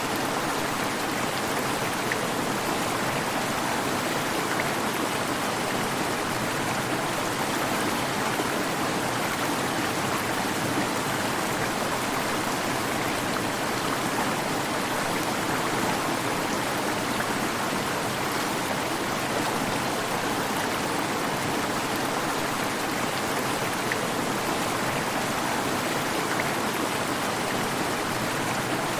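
Waterfall: steady rushing and splashing of falling water, an even, unbroken wash of noise.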